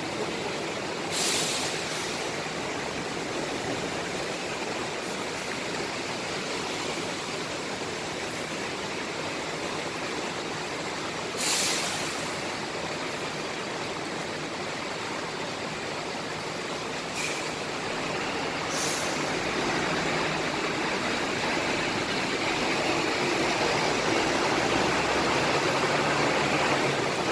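Diesel buses running in a bus terminal over a steady hiss, with short sharp air-brake hisses about a second in, near the middle (the loudest), and twice more in the second half. In the second half a bus engine rumble grows steadily louder.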